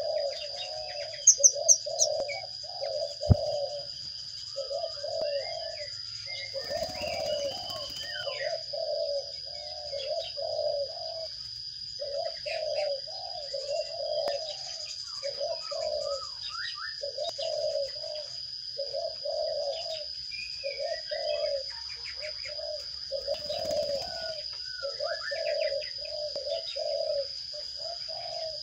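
A bird's low, cooing call repeated steadily more than once a second, over scattered short chirps and a steady high whine. Two brief rustling bursts, about seven seconds in and again near the end, fit wings flapping at the nest.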